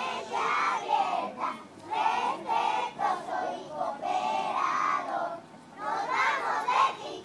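A group of young voices singing a chant together in unison, phrase after phrase, with a brief pause about five and a half seconds in.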